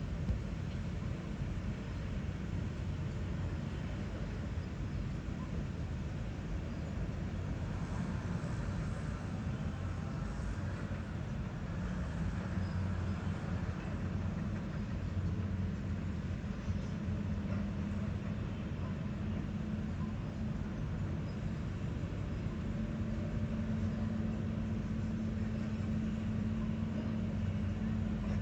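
Large diesel engine of construction machinery running steadily, a low hum that steps up slightly in pitch about three-quarters of the way through.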